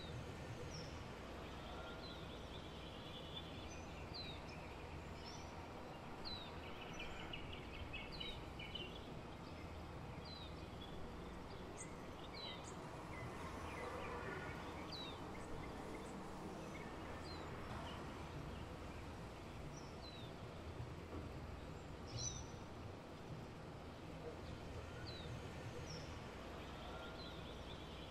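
Birds chirping in short, falling chirps, roughly one a second, over faint steady background noise.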